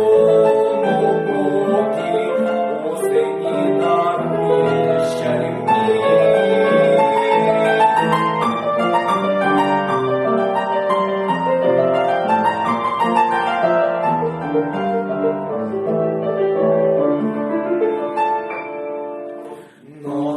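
Piano music, an instrumental passage of a song accompaniment, with a short drop in loudness near the end before the playing picks up again.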